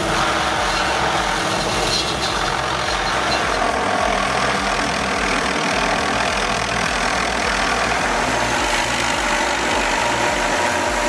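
An engine running steadily and loudly, with no breaks or changes.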